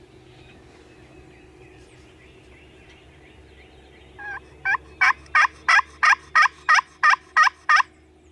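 A loud run of about eleven evenly spaced turkey yelps, about three a second, beginning about four seconds in with a softer first note. Faint distant bird calls come before them.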